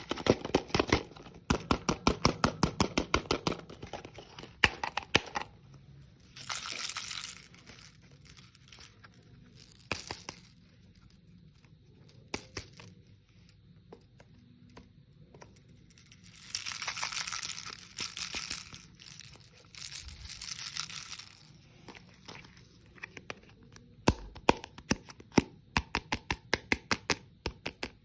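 Hard candy being crunched close up: quick runs of sharp crackling snaps at the start and again near the end, with three longer stretches of crinkling crunch in the middle.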